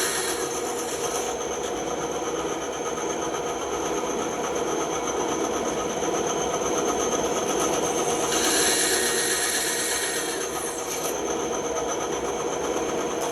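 Bandsaw running steadily, its blade cutting through wood, with a harsher stretch of cutting about eight seconds in that lasts a couple of seconds.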